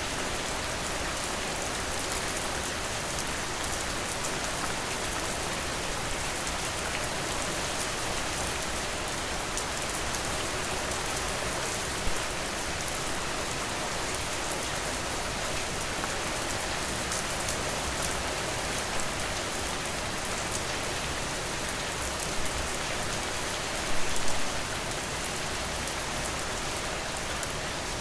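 Steady rain falling, an even hiss of rain on surfaces, with a few short, louder sharp sounds: one about twelve seconds in and a small cluster a little before the end.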